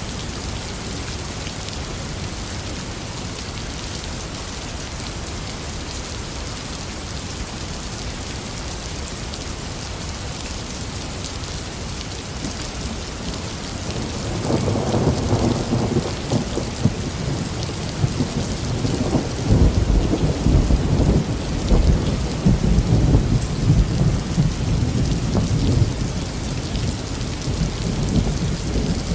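Heavy rain falling steadily. About halfway through, thunder rolls in with a deep rumble that is loudest a few seconds later and eases near the end.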